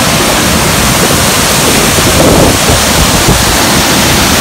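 Loud, steady rush of water pouring over a rainforest waterfall.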